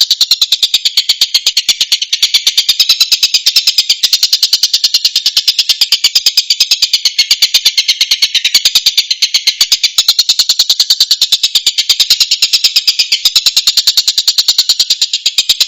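Tengkek buto calling: a continuous, rapid trill of high, sharp notes repeated many times a second without a break.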